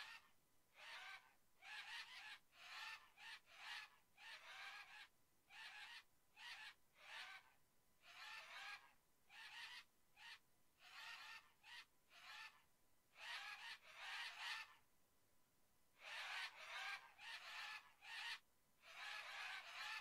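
Faint birds calling over and over: short calls, one or two a second, with a brief pause about three-quarters of the way through.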